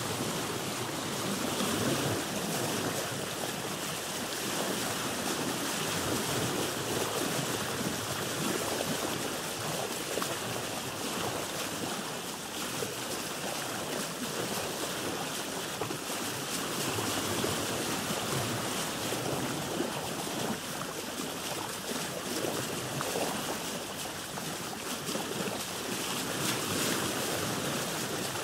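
Sea water washing and splashing against a boat's hull, with waves rising and falling every few seconds in a steady hiss.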